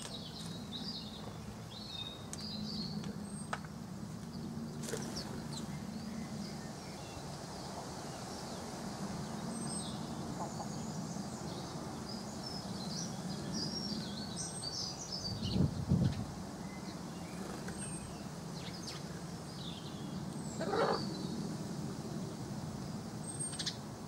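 Small birds chirping and calling, with a short high note repeating about every four seconds, over a steady low hum. A brief low thump comes about two-thirds of the way through, and a falling whistle-like sweep comes near the end.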